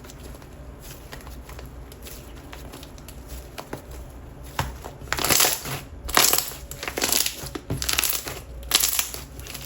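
Thick, glossy slime being played with by hand: quiet handling at first, then from about halfway through a run of loud, irregular wet squelches and pops as it is squished.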